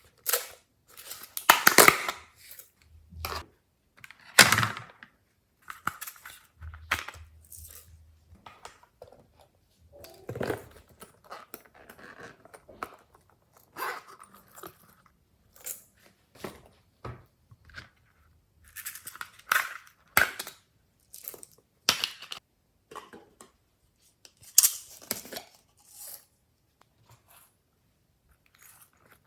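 Glossy slime being squeezed and worked by hand: irregular short sticky, squishing sounds coming at uneven intervals, some sharp and loud.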